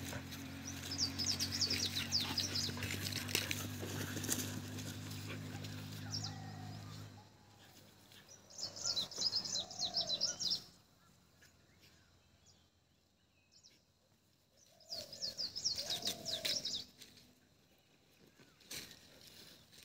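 Wild birds chirping in three bursts of rapid high notes, a few seconds apart, with a few lower short calls between. A steady low hum with several pitches runs underneath and stops about seven seconds in.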